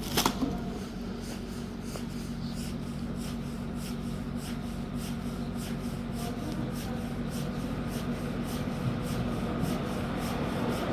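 Steady low hum of a train standing at a station platform, with a soft rasping tick about three times a second over it and a sharp click near the start.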